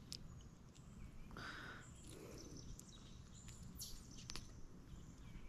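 Faint birds chirping, with a few light clicks.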